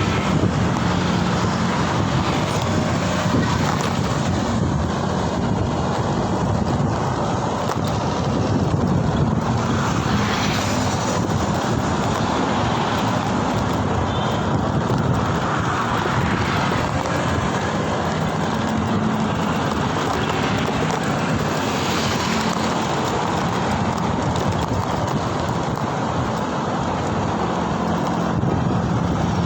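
Steady rush of wind and road noise from riding along in traffic.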